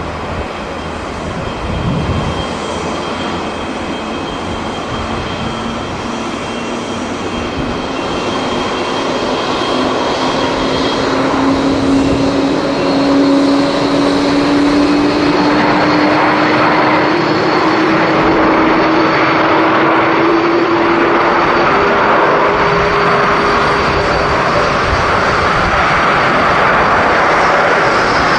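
Jet airliner engines running, with a whine that slowly rises in pitch while the roar grows louder over the first half and then holds steady.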